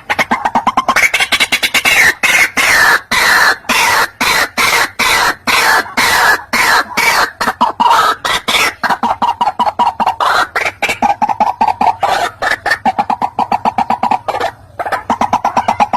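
White-breasted waterhen calling: a long, unbroken series of harsh, repeated croaking notes, several a second, getting quicker about halfway through. It is a lure call recording meant to draw waterhens in.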